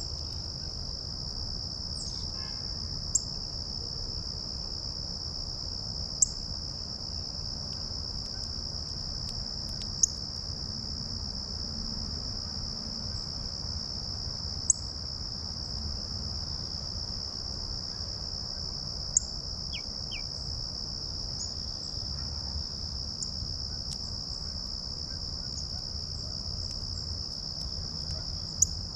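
Steady high-pitched chorus of insects droning, with about six sharp, short ticks spaced a few seconds apart standing out above it. Around twenty seconds in there is a faint, quick two-note bird call.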